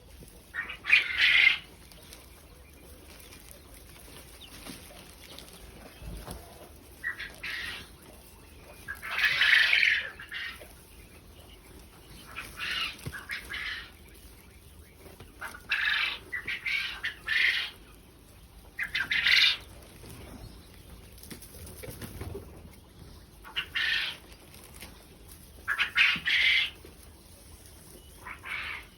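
Quail making short, harsh calls, about ten of them spread irregularly, each lasting under a second.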